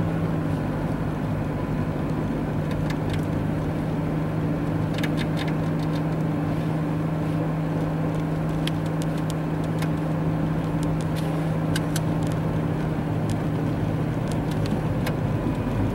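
Steady drone of a car's engine and tyres, heard from inside the cabin while driving slowly on a snow-covered road, with a constant low hum. Scattered light clicks are heard over it.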